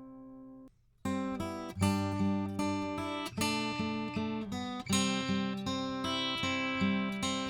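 Acoustic guitar strumming chords, played through a Warm Audio EQP-WA tube equalizer with its highs boosted. A ringing chord cuts off suddenly just under a second in, and after a short gap steady strumming starts at about two to three strums a second.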